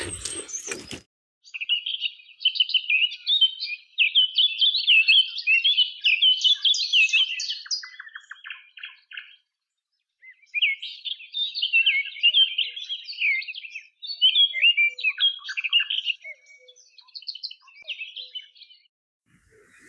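A songbird singing two long, fast warbling phrases full of quick notes and trills, each lasting several seconds, with a short pause between them.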